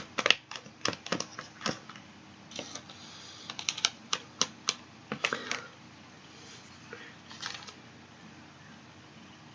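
Small plastic spoon tapping and scraping against a plastic candy-kit tray while stirring a thick paste: a quick, irregular run of sharp clicks that stops after about six seconds, with a few softer scrapes a little later.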